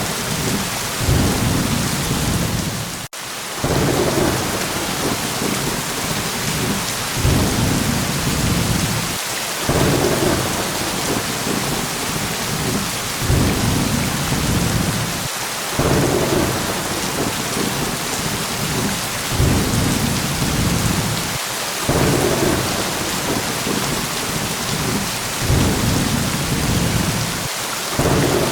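Steady heavy rain with low rumbles of thunder rolling in about every six seconds. The sound cuts out for a split second about three seconds in.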